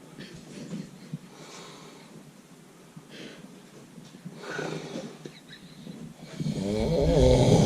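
A person snoring while asleep: soft breaths at first, then a loud, drawn-out snore that swells over the last second or so.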